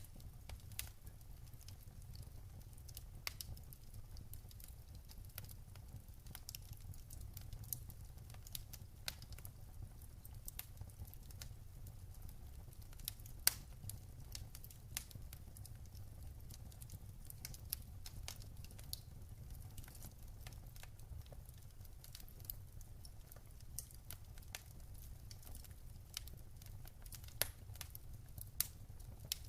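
Wood fire burning in a fireplace, crackling with irregular sharp pops and snaps over a steady low rumble; one louder pop about halfway through.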